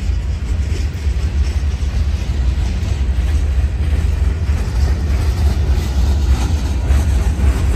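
Freight train cars, open hoppers and tank cars, rolling past on the rails with a steady low rumble.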